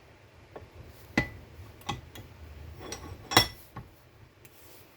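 Workshop metal clatter: about seven sharp clinks and knocks of steel tools and parts being handled while a bench vice is set, some with a short metallic ring, the loudest about three and a half seconds in.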